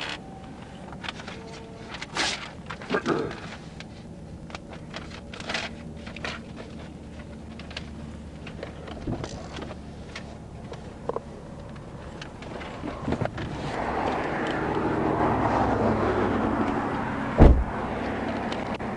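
Inside an idling police patrol car: steady engine hum with scattered clicks and knocks of things being handled. A rush of outside noise swells in near the end, then a car door shuts with a heavy thump.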